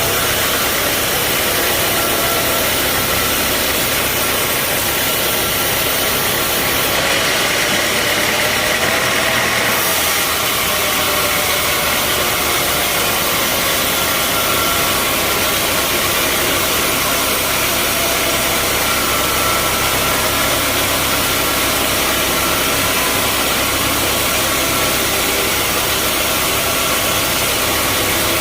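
Bandsaw sawmill running: a loud, steady mechanical noise with faint steady tones. It turns briefly hissier and brighter from about seven to ten seconds in.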